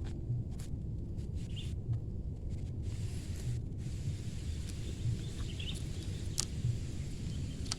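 Outdoor ambience: a steady low rumble with a soft low pulse about every second and a half. Faint high bird chirps come twice, and there are a couple of sharp clicks near the end.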